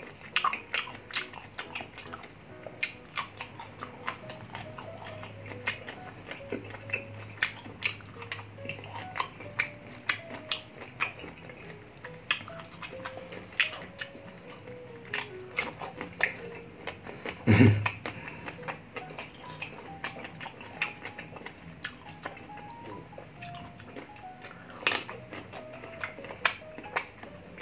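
Close-miked crunching and chewing of raw green mango (biyakin variety) dipped in shrimp paste: many sharp crunches, with one much louder crunch about two-thirds of the way in. Light background music plays under it.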